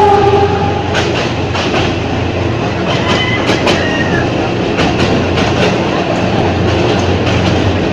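Ex-JR 203 series electric multiple unit running along the track, its wheels clicking over rail joints at uneven intervals over a steady low hum. A two-pitch tone at the start fades out about a second in, and a brief higher tone sounds about three seconds in.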